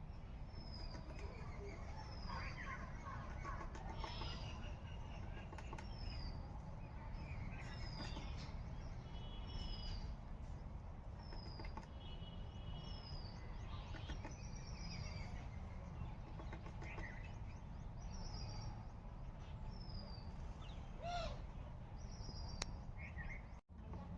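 A small bird repeating a short, high, falling call about every couple of seconds, with a few other scattered chirps, over a steady low rumble.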